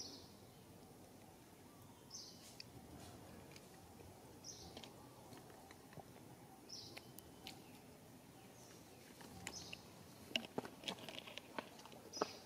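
A bird repeats a short, high chirp about every two seconds over faint outdoor background noise. Near the end, a quick run of sharp clicks and ticks.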